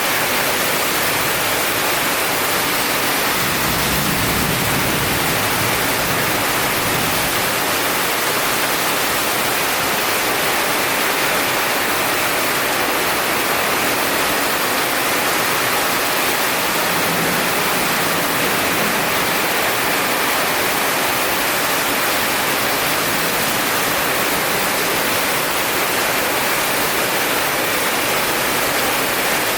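Heavy rain falling in a dense, steady hiss. A low rumble, like distant thunder, swells briefly about four seconds in.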